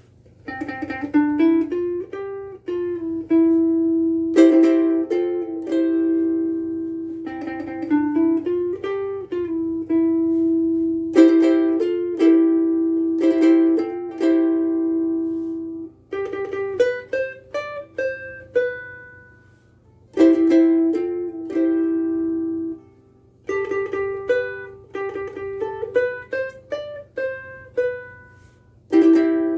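Cocobolo soprano ukulele strung with Uke Logic Oli strings, played as phrases of plucked chords and single melody notes that ring and fade, with short pauses between phrases.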